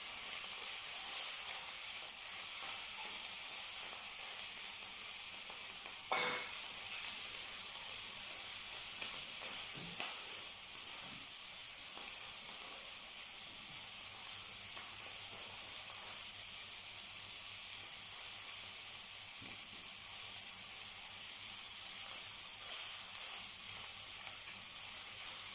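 Chicken thighs sizzling steadily as they fry in oil in a stainless steel pan, with louder stirring about a second in and again near the end. Two short sharp clicks are heard in between.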